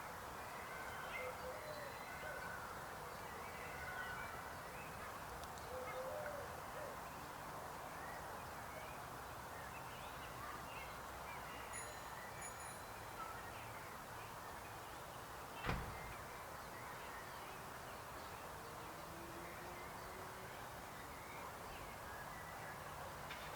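A chorus of frogs croaking: many short calls overlapping into a steady hum. A single sharp knock about sixteen seconds in.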